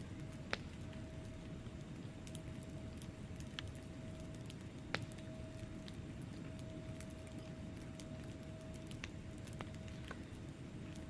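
Wood fire burning in a fireplace: logs crackling with scattered sharp pops, two louder ones about half a second in and about five seconds in, over a steady low rumble of the flames.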